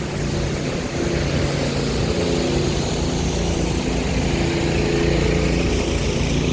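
A motor engine running close by with a steady hum that shifts in pitch now and then, under a heavy low rumble of strong wind buffeting the microphone.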